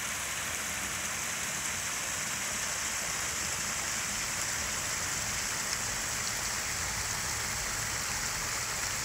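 Water pouring steadily over a waterfall on a stream, an even, unbroken rushing hiss.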